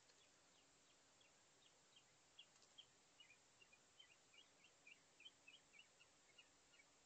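Faint bird song: a quick run of short, high chirping notes, several a second, growing busier about two and a half seconds in.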